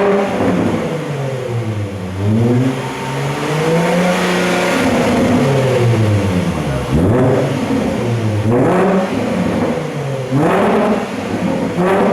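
Range Rover Sport's 3-litre V6 engine revving through a tuned exhaust: first a slow rise and fall in revs, then three short, quick blips of the throttle.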